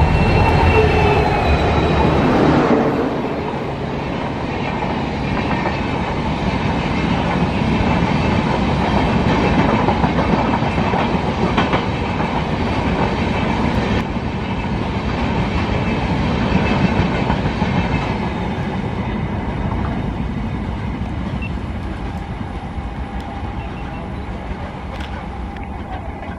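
WDP4 diesel locomotive passing close with its engine running for the first couple of seconds, then a long rake of passenger coaches rolling past with a steady clatter of wheels over the rail joints. The sound eases off slightly near the end.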